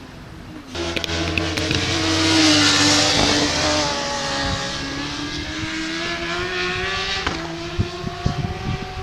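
Racing motorcycles at full throttle going past on the circuit. The sound cuts in about a second in, is loudest around three seconds, and the engine pitch rises and falls through the gear changes. A few short knocks come near the end.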